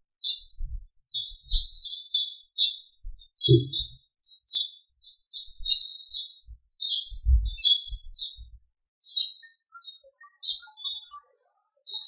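Small songbirds chirping and twittering in quick high-pitched bursts, several calls overlapping, with a few thinner, higher notes among them. Occasional brief low thumps underneath, the strongest about three and a half seconds in and again about seven seconds in.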